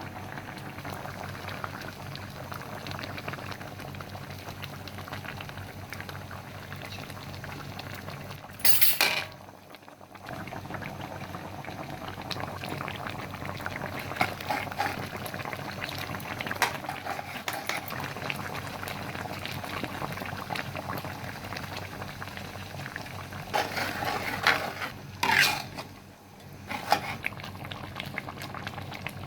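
Pot of kerutuk curry gravy bubbling at a steady simmer, with a spoon stirring and knocking against the pot now and then. Two brief louder clatters stand out, about nine seconds in and again about twenty-five seconds in.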